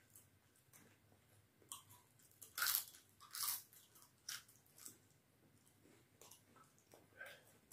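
A person biting and chewing crisp papad (fried lentil wafer): a run of short, irregular crunches, loudest about three seconds in.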